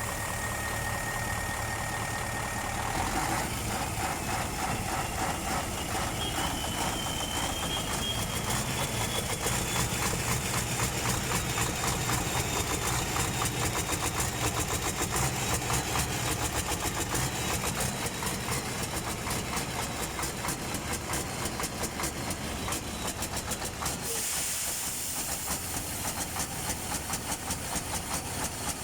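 Mercedes-Benz Actros truck's diesel engine running with a steady pulsing beat and hiss; a few seconds in a high whine rises and then holds. The engine is the one the owner calls smoky and misfiring after its nozzles and injection pump were repaired.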